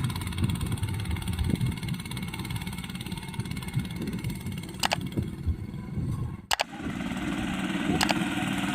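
Homemade mini tractor's small engine running steadily, with a couple of sharp clicks and a brief break about two-thirds of the way through.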